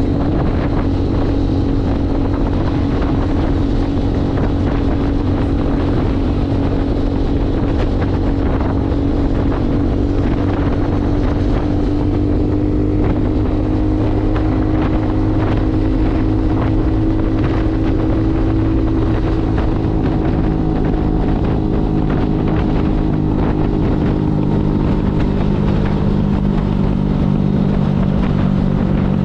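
Motorcycle engine running steadily under way, heard from on the bike, with wind buffeting the microphone. The engine note drifts slowly and drops lower near the end.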